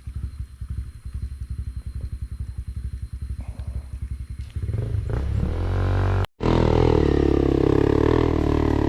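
Motorcycle engine chugging at low revs, then revved hard from about four and a half seconds in and held at high revs as it climbs. The sound cuts out for an instant just past six seconds.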